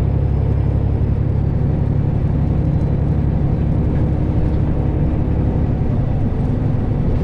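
Freightliner Classic semi truck's diesel engine droning steadily, heard from inside the cab while driving.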